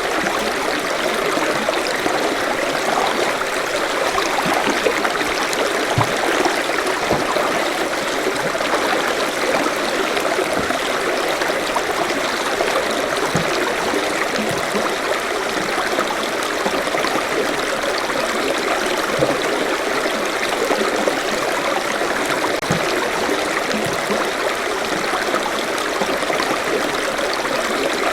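Forest stream flowing steadily over rocks, a continuous rushing with small gurgles.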